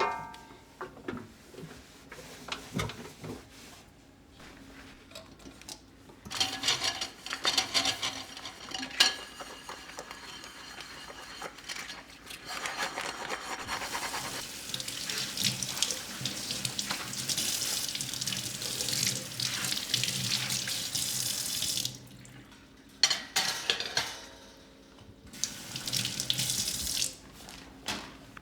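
Kitchen tap running into a sink in spells: water from about six seconds in, running fuller from about halfway until a few seconds before the end, then briefly again near the end, with a knock of something handled in the sink.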